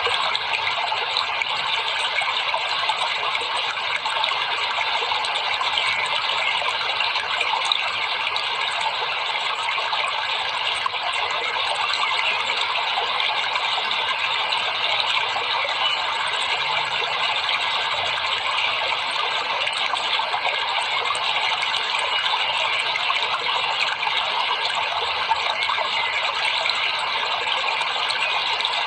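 Steady rushing of running water, an even unbroken wash of noise with no rhythm.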